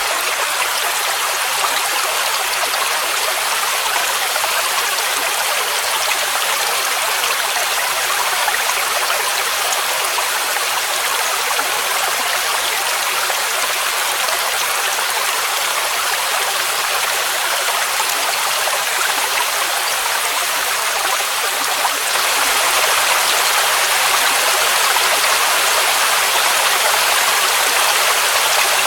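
Waterfall rushing in a steady, hissing wash of falling water with little deep rumble. It grows a little louder about three-quarters of the way through.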